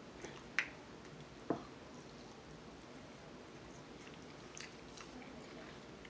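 Eating pork ribs by hand: quiet chewing with a few short, sharp mouth smacks, the two loudest near the start about a second apart and a fainter one later.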